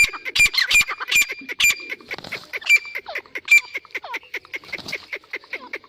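Wild duck quacking in rapid, repeated short calls, mixed with many sharp clicks.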